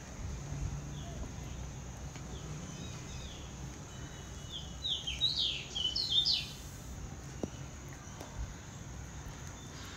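A bird chirping: faint short chirps early on, then a quick run of louder, sharply falling chirps around the middle, over a low steady background noise.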